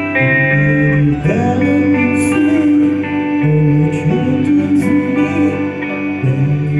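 Band music led by guitar, with held chords and a bending melody line coming in about a second in.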